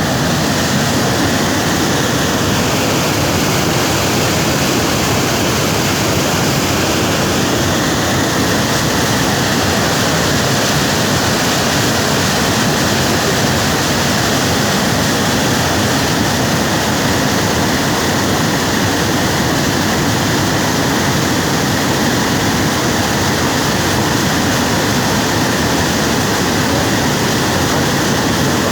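Loud, steady rush of water pouring through a dam, an even roar with no pauses or changes.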